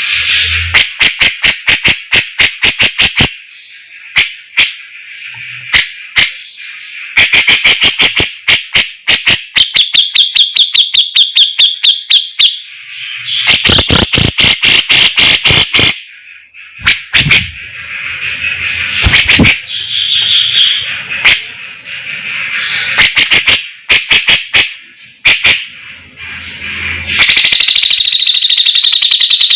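Cucak jenggot bulbul singing loudly in phrases of rapid, sharp repeated notes and ringing trills, broken by short pauses.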